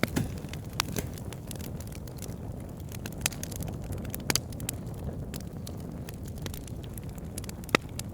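Wood fire burning: logs crackling with irregular sharp pops over a steady low rush of flame, one pop standing out loudest near the end.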